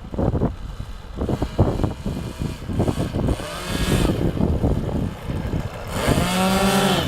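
Model aircraft's propeller motors whining and revving, the pitch arching up and down about three seconds in and again near the end, over gusty wind noise and scattered knocks.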